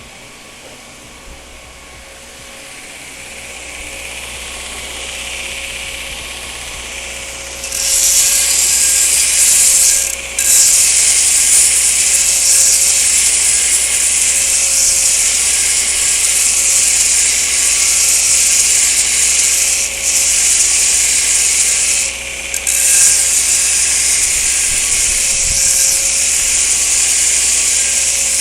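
Belt grinder running, then from about eight seconds in a loud steady hissing grind as steel is pressed against the abrasive belt, broken three times by brief lifts off the belt.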